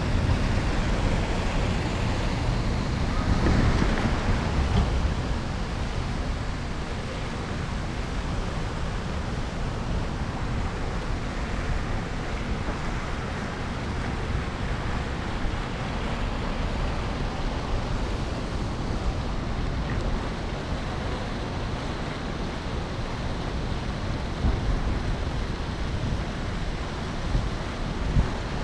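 Wind rushing over a handlebar-mounted action camera's microphone on a moving electric scooter, a steady low rumble with street traffic noise underneath, briefly louder about three to four seconds in.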